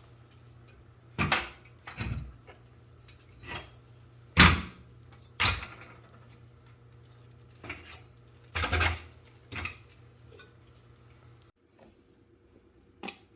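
Metal tools and parts being handled: a series of separate clanks and clinks, the loudest about four seconds in, over a low steady hum that cuts off near the end.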